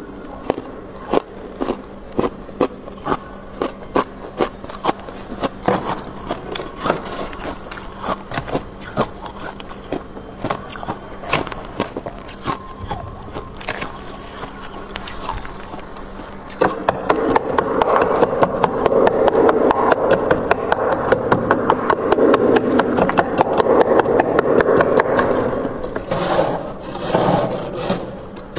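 Frost being scraped off a freezer's walls: separate crisp scrapes and crunches, then from about two-thirds through a fast, continuous scraping, with a few louder strokes near the end.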